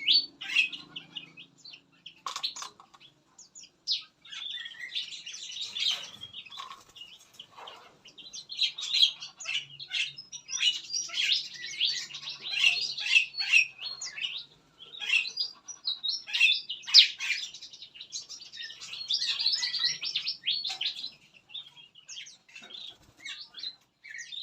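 A mixed flock of caged songbirds, bulbuls and other small fruit-eating birds, chirping and calling busily. Many short, high calls overlap, with a few brief lulls.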